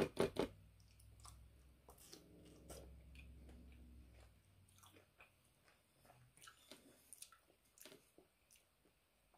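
A person biting into and chewing peeled mango: a few loud, sharp bites right at the start, then soft, scattered chewing clicks.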